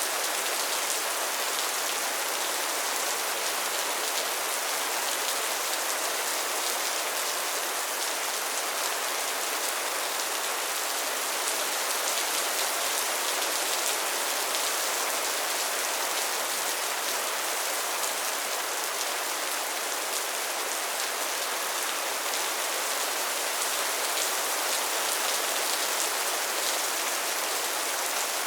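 Steady rain falling: an even hiss of countless drops, mostly high in pitch. There is no thunder and no change in intensity.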